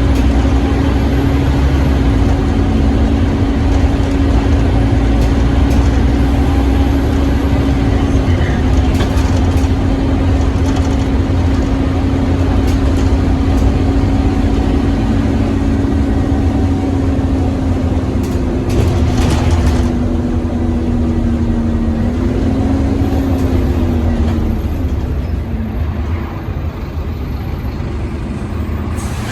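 Scania OmniCity double-decker bus running, with a loud steady whine over a low engine rumble: the 'hoover' sound this bus is known for. The whine's pitch sags slowly, then rises and falls again about three quarters of the way through.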